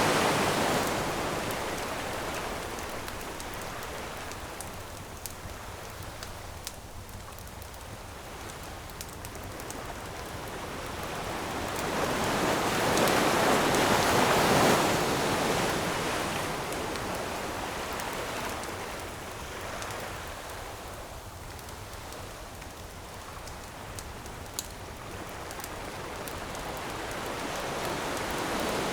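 Ocean waves breaking on a shore in slow surges, one cresting about halfway through and another building near the end, with scattered pops and crackles from a wood campfire.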